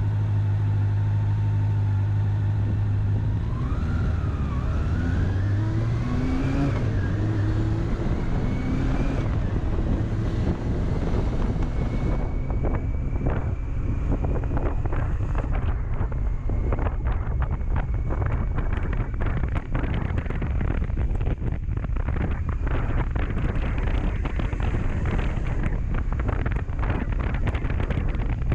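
Honda CB400SF's inline-four engine running steadily, then revving up and dropping back a few times as it pulls through the gears. About halfway through, wind buffeting on the microphone covers the engine at speed.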